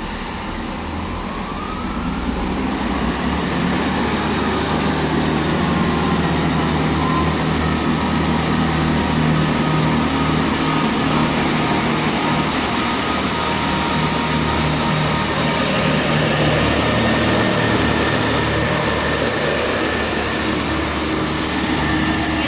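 Diesel engines of a Turbo diesel multiple unit powering up as the train pulls away, growing louder about two to four seconds in, then running steadily under power.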